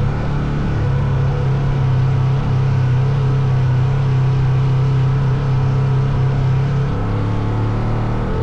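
Motorcycle engine running at a steady speed with an even, constant-pitched hum, its note changing about seven seconds in.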